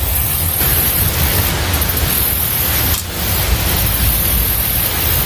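Loud wind noise buffeting the microphone, an uneven low rumble over a steady hiss, with short dips about half a second in and three seconds in.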